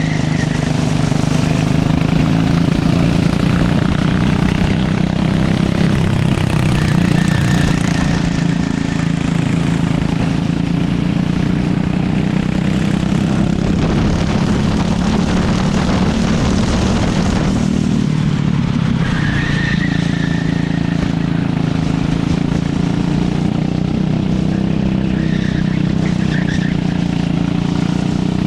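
Go-kart engine running steadily at a fairly even pitch, with a constant rushing noise over it.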